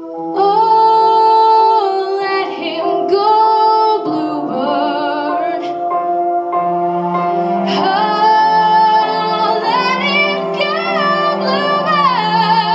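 A female vocalist singing a slow song with vibrato on held notes, over sustained musical accompaniment.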